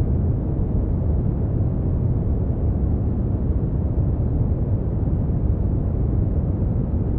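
Steady brown noise: an even, deep rumbling hiss, strongest in the bass and fading out in the treble, with no change in level.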